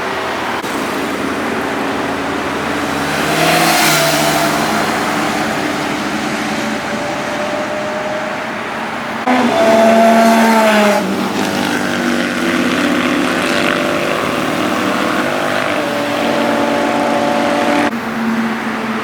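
Superbike engines revving and accelerating past, in several short clips joined by abrupt cuts. The loudest passes come about four seconds in and again from about nine to eleven seconds.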